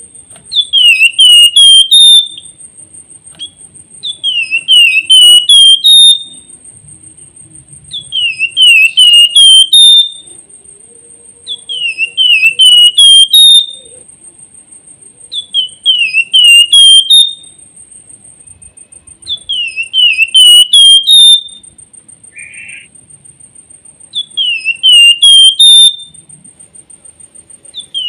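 A Javan fulvetta (flamboyan, wergan jawa) sings a loud whistled phrase of about five quick notes, each sliding down and flicking back up. The phrase repeats about every four seconds, seven times, over a thin, steady, high-pitched buzz.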